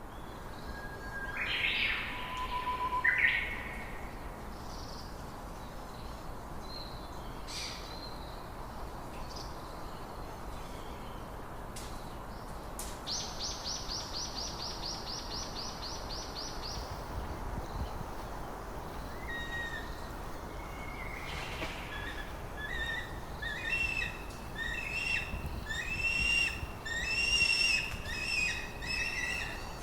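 Wild birds calling: scattered chirps and whistles, a fast high trill lasting about four seconds midway, and a run of repeated calls, roughly one a second, near the end, over a steady faint hiss of outdoor background.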